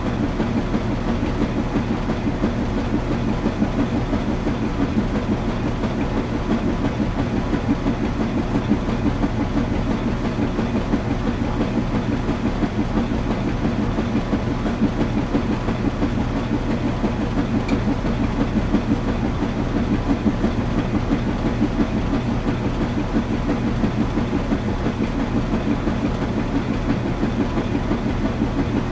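Washing machine running steadily, a low hum with a fast, even rattle over it.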